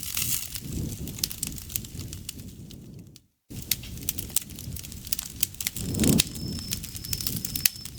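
Campfire crackling and popping with sharp irregular snaps over the low rush of the flames; the sound cuts out for a moment about three seconds in. From about six seconds in, an insect joins with short, high, evenly repeated chirps.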